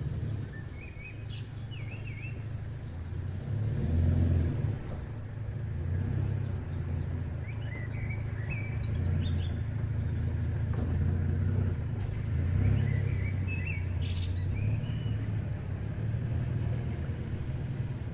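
Small birds chirping in short bursts of calls over a steady low rumble.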